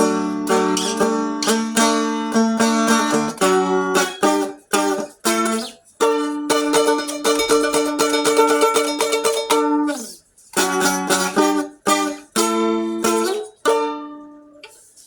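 Seagull Merlin strum stick being strummed, chords ringing over steady drone strings. The playing pauses briefly about ten seconds in, then resumes and fades out near the end.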